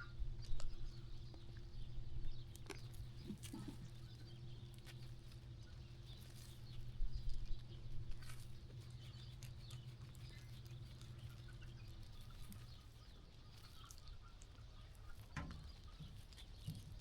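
Faint sheep-pen ambience: scattered shuffling, hoof steps and rustling of sheep moving and grazing, with faint high bird chirps. A steady low hum runs underneath and stops about twelve seconds in.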